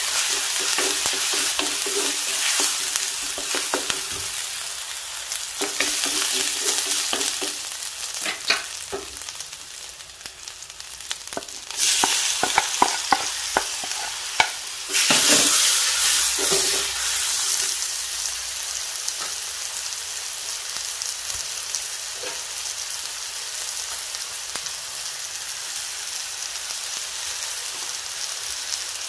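Chopped onions and ginger-garlic paste sizzling in oil in a clay pot, stirred with a spatula that scrapes the pot. About halfway through, chopped tomatoes are tipped in with a run of clicks and taps, and the sizzle grows louder, then settles to a steady fry.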